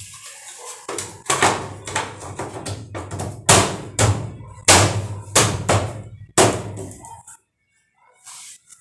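A quick run of knocks and thunks, several a second, over a steady low hum, cutting off suddenly about seven seconds in.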